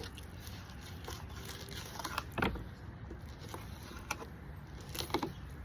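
Fillet knife cutting through a carp on a board: a few short scrapes and taps, about two and a half seconds in, around four seconds and just after five seconds.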